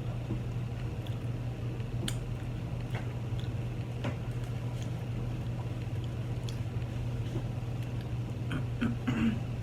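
A person chewing chili cheese fries, with a few light clicks scattered through, over a steady low hum.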